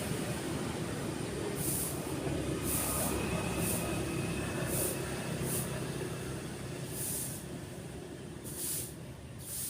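A passing motor vehicle's engine hum, fading away over the wash of surf.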